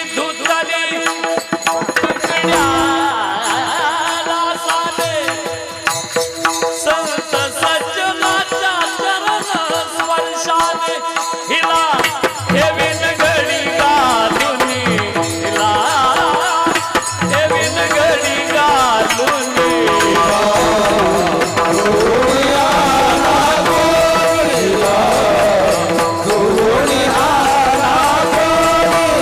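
Kirtan devotional music: voices singing over a steady held drone and a jingling hand-cymbal beat, growing fuller about halfway through.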